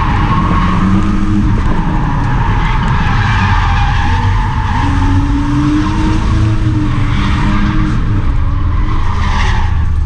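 Turbocharged Volvo drift car being driven hard while drifting: the engine runs at a fairly steady pitch under loud, continuous tire squeal and skid noise, which cuts off abruptly near the end.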